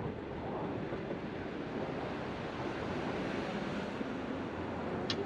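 A steady rush of wind over the microphone mixed with the road and wheel noise of a Bird electric scooter being ridden, with a short click about five seconds in.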